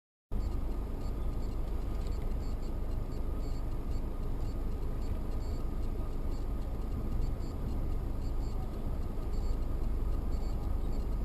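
Steady road and engine rumble of a moving car, heard from inside the cabin. It cuts in abruptly just after the start and stays even throughout.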